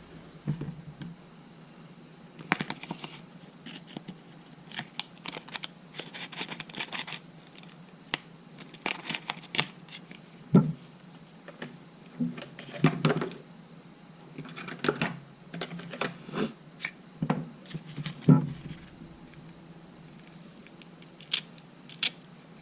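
Irregular clicks, taps and scrapes of small tools and materials being handled on a workbench, some in quick clusters. They stop near the end.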